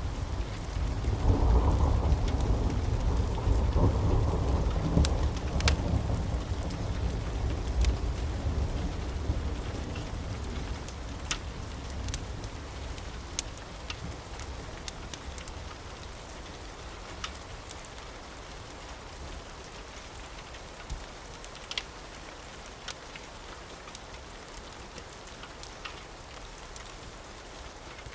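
A long roll of thunder over steady rain. The thunder is loudest in the first several seconds and slowly dies away. Scattered sharp ticks run throughout.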